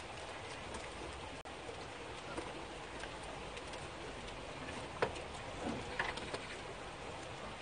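Steady rain falling, an even hiss with a few sharp taps about five and six seconds in.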